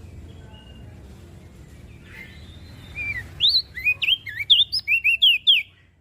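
Crested dark-eye (opior jambul) singing: over a low background rumble, about three seconds in, a quick run of roughly a dozen loud, sharply sweeping chirps that rise and fall in pitch, then stops.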